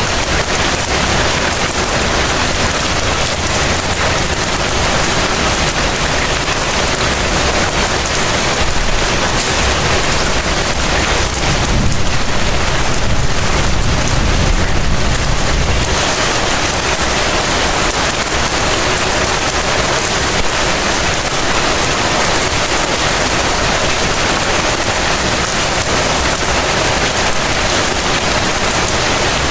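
Heavy rain falling, a steady dense hiss. About halfway through, a low rumble swells for a few seconds and then stops abruptly.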